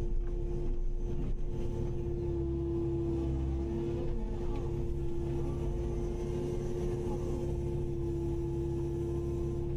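Kubota KX080-5 excavator running steadily, a constant engine rumble with a strong steady hum over it and no change in pitch.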